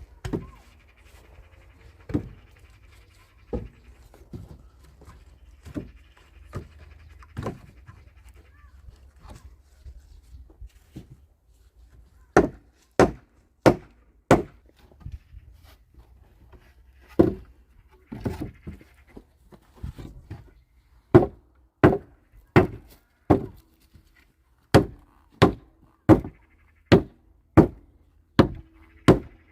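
A hand tool striking over and over: a few scattered knocks, then runs of sharp blows that settle near the end into a steady rhythm of about one blow every two-thirds of a second.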